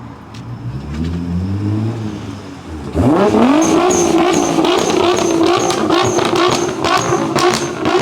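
A car engine revving. It runs at low revs with rising and falling pitch, then about three seconds in it is revved hard and held at high revs, with sharp cracks over it.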